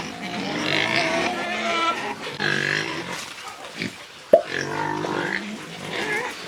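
Piglets grunting and oinking in a run of short calls, with one sharp knock about four seconds in.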